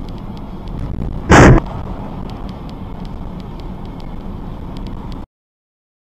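Dashcam recording of a car on the road with steady driving noise, broken about a second and a half in by one short, very loud bang that overloads the recording, the sound of a collision impact. The driving noise carries on after it, then cuts off suddenly about five seconds in.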